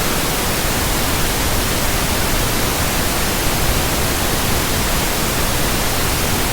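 Pure white noise: a steady, even hiss that covers the whole frequency range at a constant level, with no tones or breaks.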